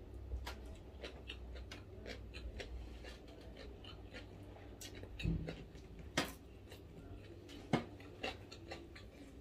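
A person chewing and biting food close to the microphone: irregular crunches and sharp mouth clicks. A dull low thump about five seconds in.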